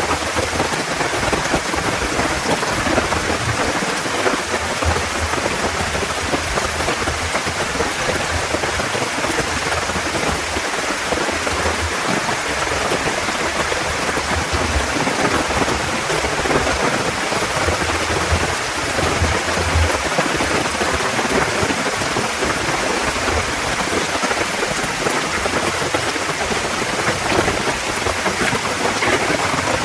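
Heavy rain falling steadily, a dense even hiss of drops, with a low rumble coming and going underneath that is in keeping with distant thunder.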